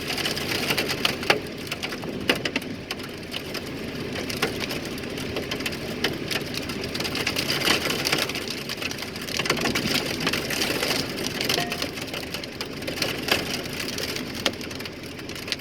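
Hailstones pelting a vehicle: a dense, loud clatter of hard impacts over the hiss of heavy rain.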